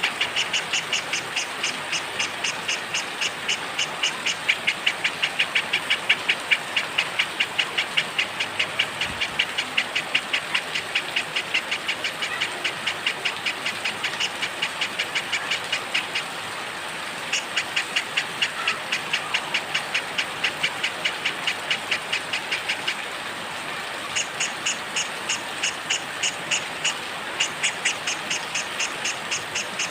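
A small songbird gives a fast, even run of high chirps, about four a second, pausing briefly twice, over the steady hiss of rain.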